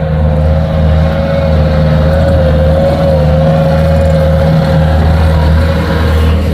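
Engine running steadily at a constant speed, a deep drone with a high whine above it that wavers slightly in pitch.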